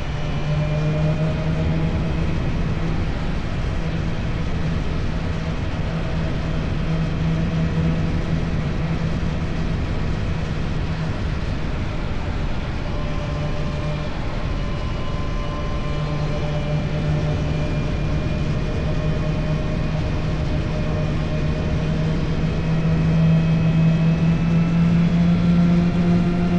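Motorcycle engine through an Akrapovic exhaust, pulling steadily under way with the rush of wind. The engine note eases off for a few seconds in the middle, then comes back and grows louder and a little higher near the end.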